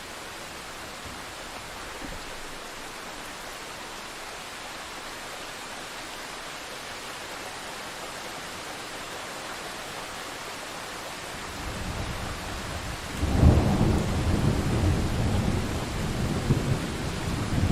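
Thunderstorm: steady rain hiss, then a low rumble of thunder building into a loud thunderclap about three-quarters of the way through, which keeps rumbling.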